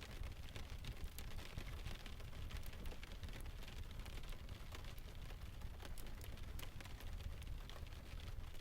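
Layered ambience of steady rain hiss with frequent sharp crackles of a wood fire, over a steady low rumble.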